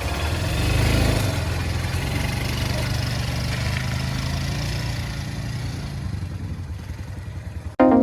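Kayo Bull 200's engine running at a fairly steady speed, slowly fading, then cutting off suddenly near the end.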